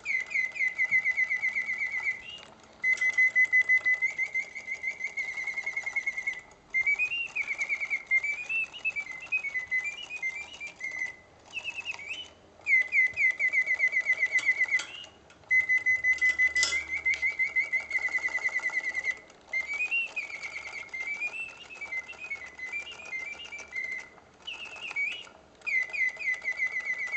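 Vintage Reuge double singing bird cage automaton, circa 1970, singing through its bellows-driven whistle. Its song alternates rapid trills held near one pitch with warbling phrases that rise and fall, broken by short pauses every few seconds.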